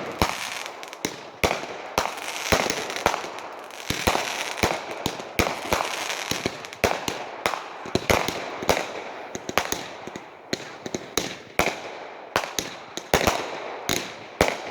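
Fireworks going off: a dense, irregular string of sharp bangs, several in some seconds, with crackling between the reports.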